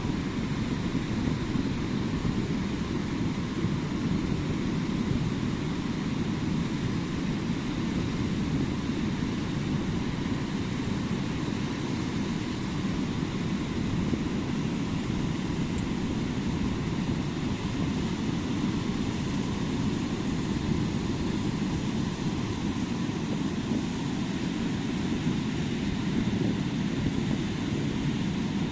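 Ocean surf breaking on a beach, a steady low rumble with no single wave standing out, with wind buffeting the microphone.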